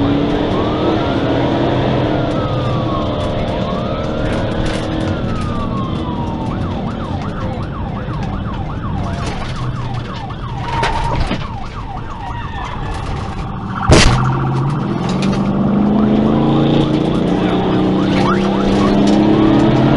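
Police car siren wailing in rising and falling sweeps during a high-speed pursuit, over a car engine running hard. A single sharp bang about fourteen seconds in is the loudest sound.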